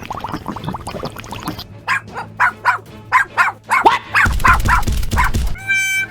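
A dog barking repeatedly, about eight short barks over a few seconds, over background music.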